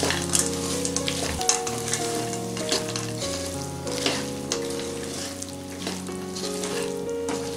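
Green peas and onion-tomato masala sizzling in hot oil in a deep pan while a wooden spatula stirs them, with repeated short scrapes against the pan.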